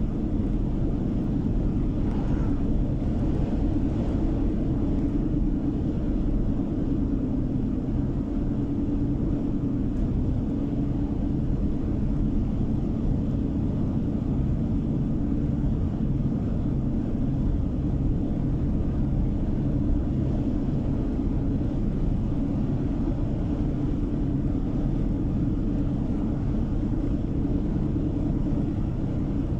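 Steady road and engine noise of a car driving at a constant pace, heard from inside the cabin, with a low rumble and a slight swell of hiss about two seconds in.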